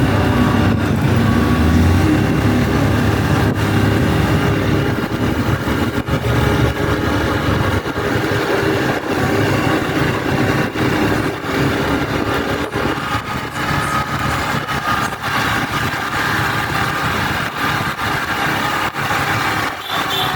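Motorcycle engine running during a ride through busy streets, mixed with wind noise and other traffic.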